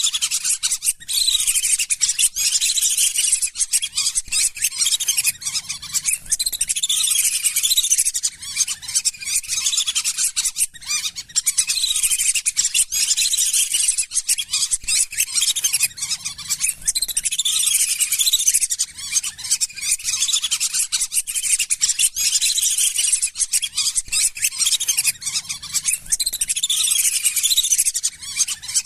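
Lesser whistling ducks calling: a dense, continuous chorus of many shrill, quick whistles from a flock.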